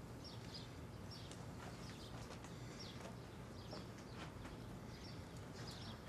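Faint room ambience with a small bird chirping outside: short high chirps about once a second over a low steady hum.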